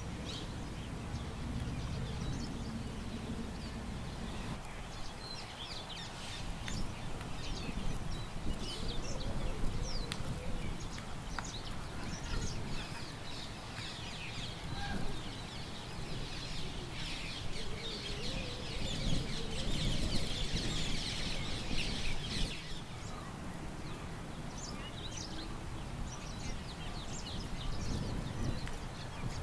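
Small birds chirping and twittering, with a burst of dense chattering calls a little past the middle, over a steady low rumble of wind.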